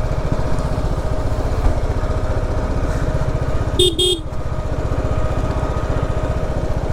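BMW G 310 RR's single-cylinder engine running at low revs with a steady pulse. About four seconds in, a horn gives two short beeps.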